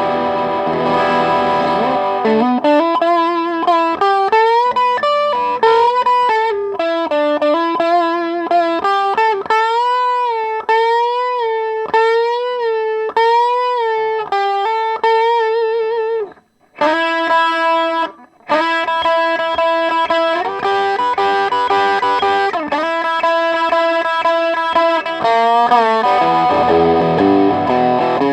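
Electric guitar played through a Behringer Vintage Tube Overdrive, a Tube Screamer clone, switched on for the first time. It opens on a chord, then plays a single-note melody with vibrato on held notes, breaks off briefly twice a little past the middle, and goes back to chords.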